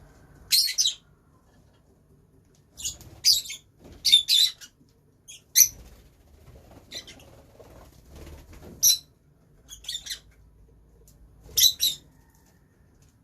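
Lovebirds giving short, shrill chirps in bursts of one to a few calls, about eight bursts spaced a second or two apart.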